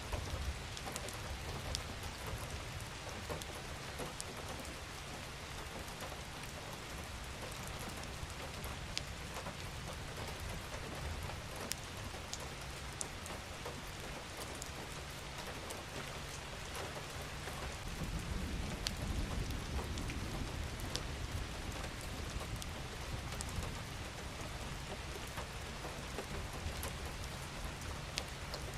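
Steady rain falling, with individual drops ticking sharply now and then. About two-thirds of the way through, a low rumble swells and fades.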